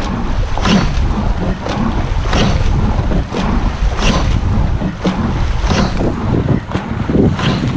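Wind buffeting the microphone in a racing rowing shell, with the rush of water and regular knocks from the oars and rigging about once a second as the crew rows hard.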